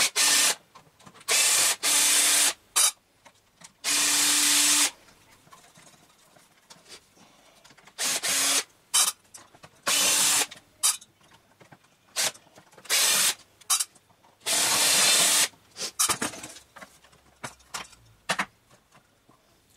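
Power drill used as a screwdriver, run in about eight short bursts of half a second to a second each to back screws out of a miter saw's housing, with small clicks of handling and screws between bursts.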